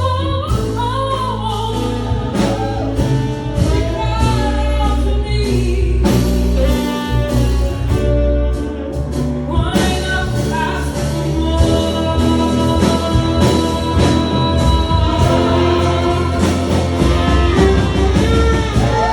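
Live band music: a slow song with a sustained bass line, drum hits and gliding melodic lines, with singing.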